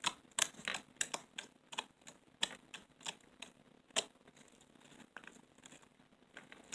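Fingers poking and squishing loose purple slime, making a run of irregular small clicking pops a few times a second, with one louder pop about four seconds in.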